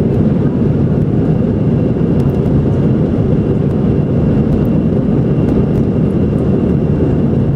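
Airbus A319 jet airliner taking off, heard from inside the cabin: a loud, steady rumble of engines at takeoff power, with a faint steady high whine above it.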